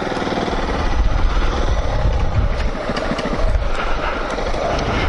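Motorcycle engine running at low revs, a deep uneven rumble.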